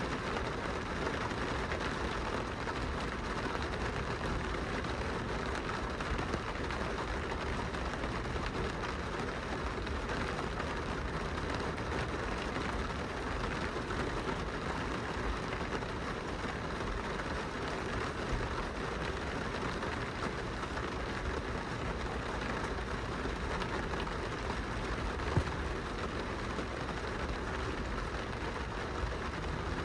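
Rain on a car's glass window, heard from inside the car: a steady patter of drops over a low rumble, with one slightly louder tap about 25 seconds in.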